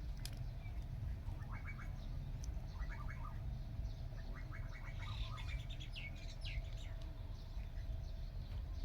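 Birds chirping in short quick runs over a steady low rumble and a faint steady hum; the chirping stops near the end.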